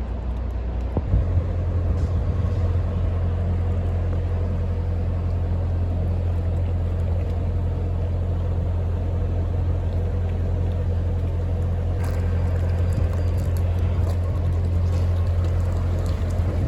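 Narrowboat engine running steadily under way, a constant low hum that steps up slightly about a second in.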